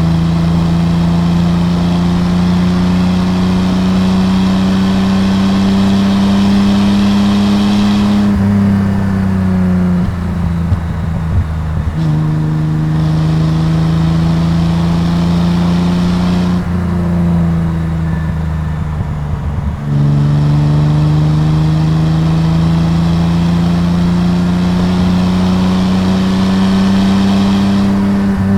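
Datsun 240Z's 2.8-litre L28 inline-six engine and exhaust pulling under throttle, its note climbing slowly through three long runs. Twice the driver eases off and the note falls and thins before the next pull.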